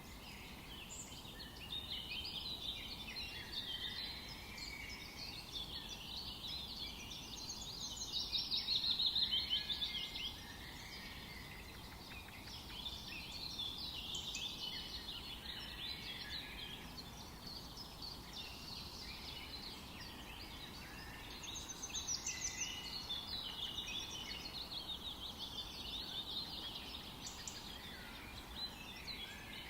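Forest birds singing in a dense, overlapping chorus of chirps and trills, swelling louder about nine seconds in and again around twenty-two seconds, over a faint steady background hiss.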